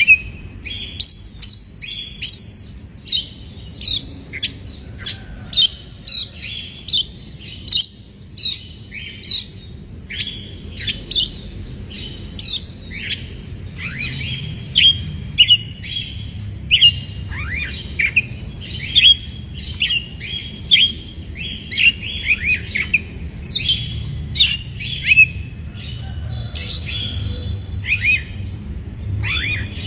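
Oriental magpie-robin singing: a fast, unbroken run of sharp, high whistled notes and chirps, several a second, many sliding down in pitch, over a low steady background rumble.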